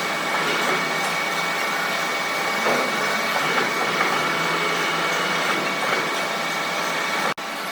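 A machine running steadily with a constant high whine over a noisy hum, cut off for a split second near the end.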